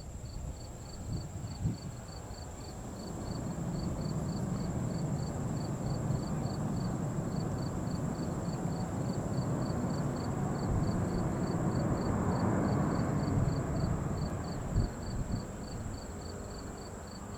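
Distant jet airliner engines, a broad rumble that swells to a peak and then fades as the aircraft passes. Insects chirp over it in a steady, even rhythm of about three chirps a second.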